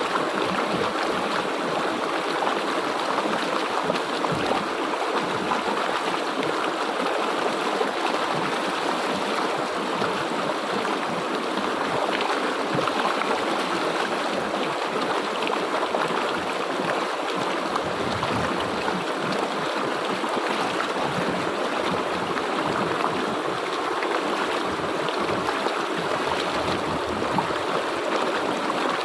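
A river or stream flowing steadily over rocks, a continuous rushing and gurgling of water.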